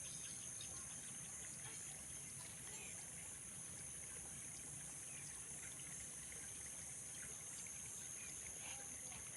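Faint steady outdoor ambience: a constant high-pitched insect chorus, typical of crickets, with a few faint short chirps.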